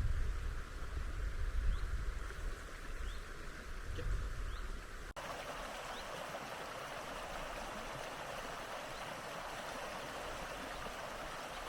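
Wind buffeting the microphone over a faint rush of water, then, after a sudden cut about five seconds in, the steady rush of a flowing river.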